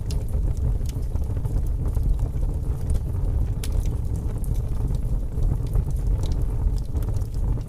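Wood fire burning in a fireplace: a steady low rumble of flames with sharp crackles and pops at irregular moments.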